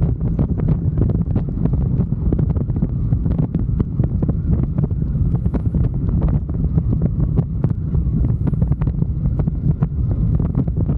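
Wind buffeting the microphone on a moving motorcycle, crackling irregularly over a steady low rumble of engine and road noise.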